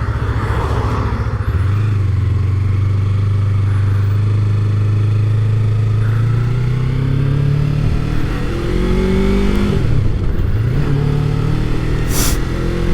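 Yamaha MT-03 motorcycle engine pulling away and accelerating, its pitch climbing steadily for several seconds, then dropping and rising again in steps as it shifts up through the gears. Wind rushes over the microphone underneath.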